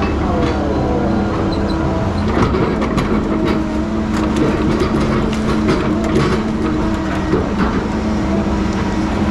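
Diesel engine of heavy logging equipment running steadily, with a run of short clanks and knocks through the middle.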